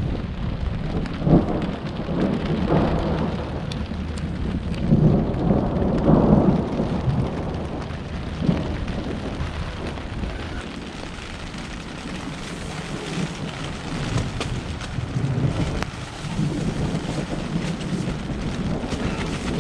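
Rainstorm on a tent: steady rain pelting the REI Kingdom 6 tent while strong wind gusts shake it, with swells of low rumbling that may be thunder.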